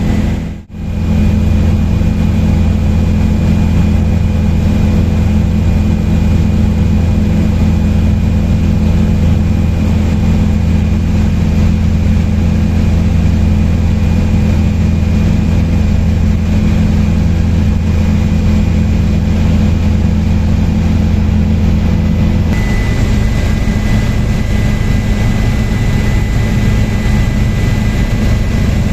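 Helicopter in flight: steady engine and rotor noise with a constant high whine. It drops out briefly about a second in, and its tones shift near the end.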